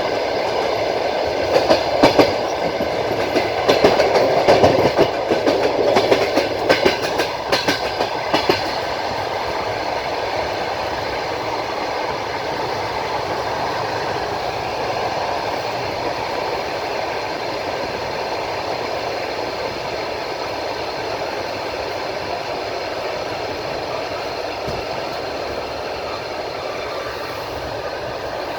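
Passenger train carriage wheels running on the rails: a run of sharp clicks over the rail joints in the first eight seconds or so, then a steady rolling rumble.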